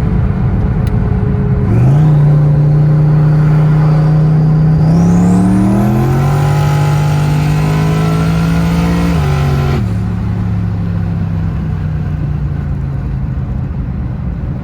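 Twin-turbo Mustang SVT Cobra 'Terminator' V8 making a full-throttle pull: the engine note jumps up about two seconds in and climbs for several seconds, with a high whine rising along with it, then falls back to a steady cruising note when the throttle is lifted near ten seconds in.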